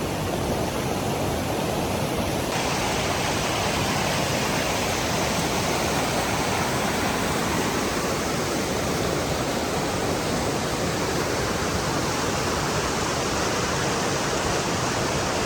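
Small waterfall pouring through a rock arch, a steady rushing splash. The sound turns brighter and hissier about two and a half seconds in.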